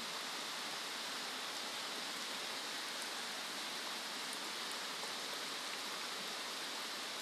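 Steady heavy rain falling, an even hiss with a few faint drip ticks.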